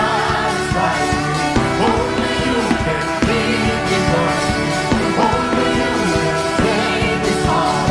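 Gospel worship music with a steady beat: sustained keyboard chords under drums, with faint singing.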